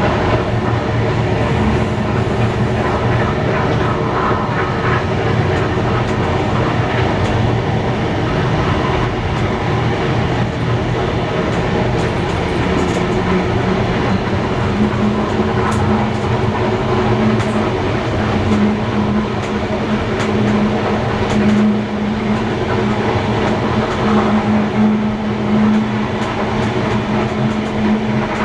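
Steam-hauled passenger train running along the line: a continuous rumble with wheels clattering over the rail joints. A steady low hum sets in about halfway.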